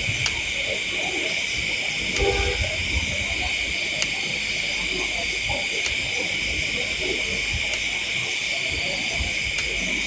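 A steady chorus of night insects chirring in a constant high band, with a faint sharp tick about every two seconds.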